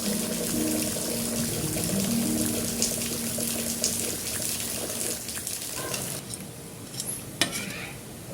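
Water running from a tap into a sink, shut off abruptly about six seconds in, followed by a couple of sharp clicks.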